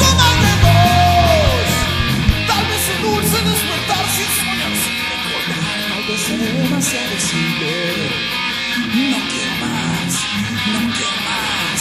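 Heavy metal band playing an instrumental passage led by guitar. The heavy bass drops away about two seconds in, leaving a lighter guitar part over steady sharp hits.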